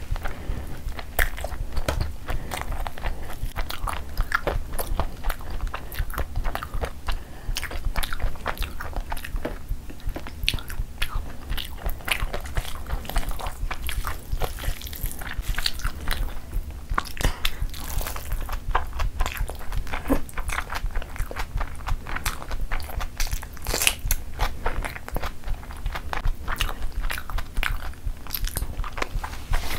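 Close-miked, wet chewing and mouth smacks of someone eating spiced rice by hand, with irregular clicks and squishes as fingers mix and scoop rice on a steel plate; a bite into a boiled egg near the end.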